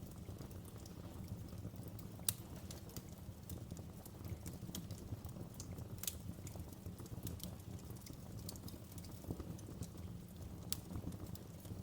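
Wood fire crackling in a fireplace: irregular sharp pops and snaps over a low, steady rumble, with one louder pop about two seconds in.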